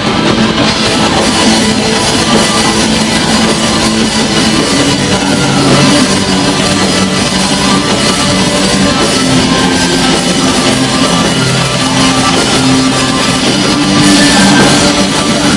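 Black metal band playing live: loud, dense distorted electric guitars over fast drums, with no vocals in this stretch.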